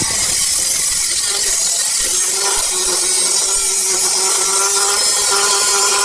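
A power tool cutting metal on the bodywork runs steadily under load: a wavering whine over a dense hiss.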